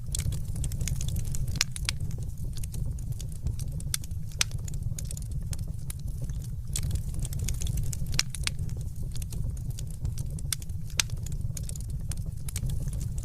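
Fireplace fire crackling, with frequent irregular sharp snaps over a steady low rumble.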